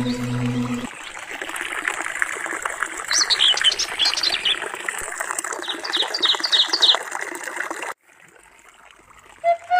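Water trickling and splashing in a small stream, with a bird giving two quick runs of falling chirps. A low droning music tone ends about a second in, the water sound cuts off near the end, and a flute note begins.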